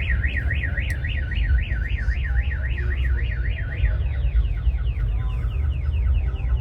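Car alarm sounding: a rising-and-falling warble about four times a second, switching about four seconds in to a faster run of falling chirps. A steady low rumble runs underneath.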